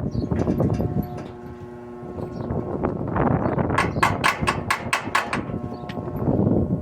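Hammer striking metal in a quick run of about seven blows, roughly four a second, with scattered single knocks before it.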